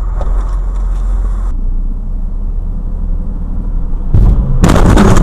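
Low road and engine rumble of a moving car, as picked up by a dashcam, that changes abruptly about a second and a half in. Near the end a loud rushing noise starts suddenly.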